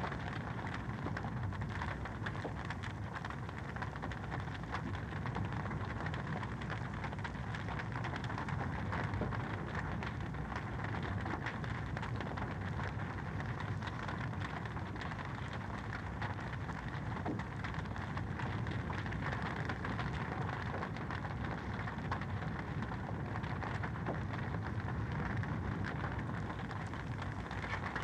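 Wood fire crackling in a fireplace: a dense, steady run of small pops and snaps over a constant hiss.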